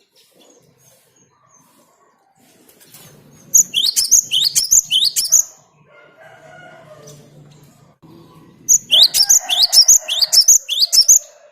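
Cinereous tit (gelatik batu) singing: two bursts of sharp, quickly repeated high notes, each about two seconds long, the second starting about halfway through.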